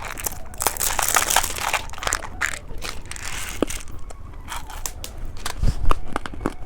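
Plastic candy packaging crinkling and crackling as it is handled, with many small sharp clicks throughout.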